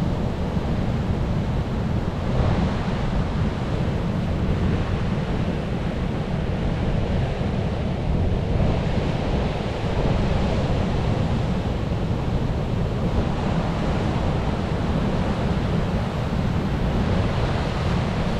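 Ocean waves washing onto a shore: a continuous rush over a constant low rumble, with waves swelling about two seconds in, again around the middle, and near the end.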